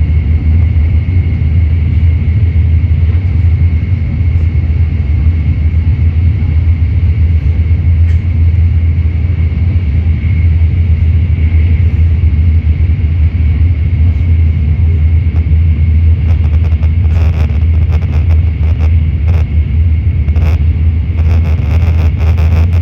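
Shinkansen Nozomi bullet train running at speed, a loud steady low rumble, with scattered light ticks in the second half.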